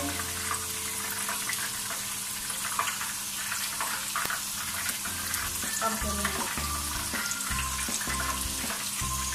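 Chicken karahi sizzling in a steel karahi over a gas flame: a steady crackling hiss of frying. From about halfway through, low repeating background-music notes play underneath.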